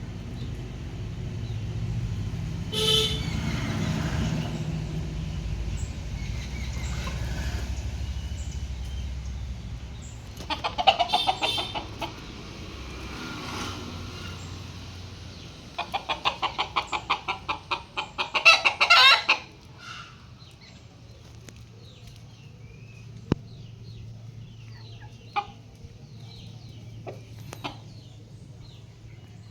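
Chickens clucking and cackling in three bouts of fast repeated calls. The longest bout comes a little past halfway and grows loudest at its end. A low steady rumble runs under the first third.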